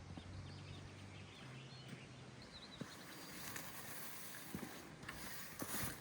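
Quiet outdoor ambience: a faint low hum for the first two seconds or so, then light rustling and a few soft knocks.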